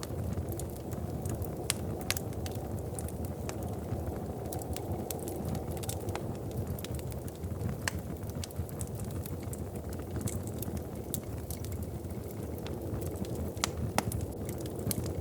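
Wood fire in a fireplace crackling, with sharp pops at irregular intervals, the loudest about two seconds in and near the end, over a steady low rumble.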